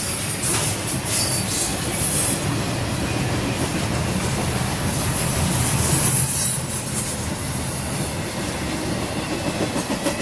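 Norfolk Southern double-stack intermodal train's well cars rolling past close by: a steady rumble of steel wheels on rail. It eases slightly after about six and a half seconds as the last cars go by.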